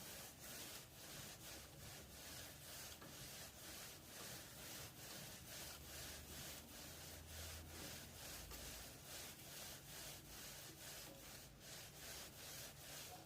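Faint, rhythmic rubbing of PTFE (Teflon) thread tape being wound by hand around the threads of a pipe nipple, about three strokes a second.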